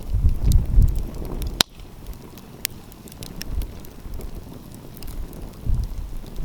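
Wood fire crackling, with scattered sharp pops; one loud snap comes about a second and a half in. Wind gusts buffet the microphone with a low rumble at the start and again near the end.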